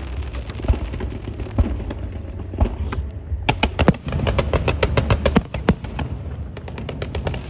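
Firecrackers and fireworks going off: scattered sharp bangs, with a quick run of cracks about halfway through and another starting near the end, over a steady low rumble.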